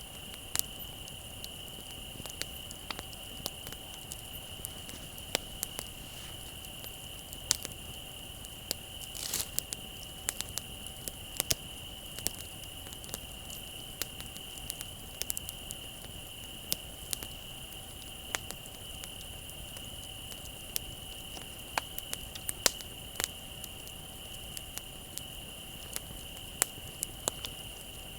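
Wood bonfire crackling with irregular sharp pops, over a steady high-pitched trill of crickets.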